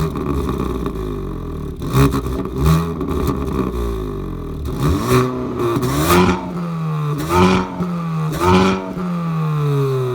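Hyundai i30 N Performance's 2.0-litre turbocharged four-cylinder engine revving up and down through its exhaust, with several short sharp cracks among the revs. The engine note falls away near the end.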